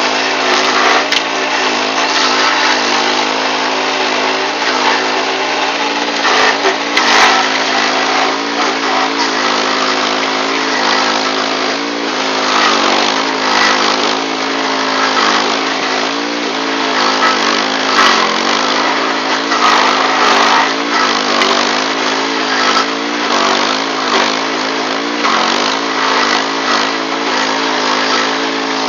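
Power King stump grinder's engine running steadily under load, its pitch sagging briefly now and then as the cutter wheel bites into the stump, over a rough hiss with scattered knocks from the grinding.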